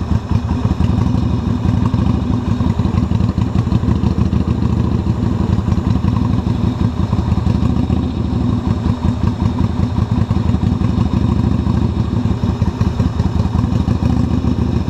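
Yamaha XV250 Virago's air-cooled V-twin engine running steadily at idle, kept going on jumper leads from a car battery; the owner suspects a faulty alternator is not charging the bike.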